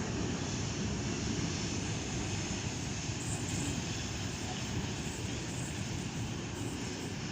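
A train rolling past at a station: a steady rumble of wheels and running gear, with a slight hiss added in the upper range from about three seconds in.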